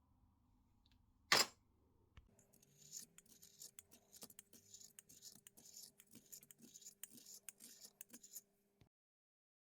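A single sharp knock, then a run of quick hand scraping strokes, about two a second, that stops abruptly near the end.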